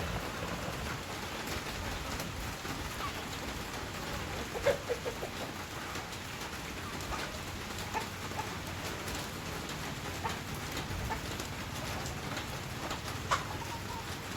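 Steady rain-like hiss with chickens clucking now and then, and a few sharp taps, the loudest about five seconds in and another near the end.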